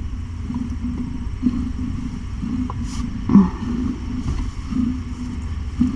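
Cat purring: a steady low rumble that pulses without a break.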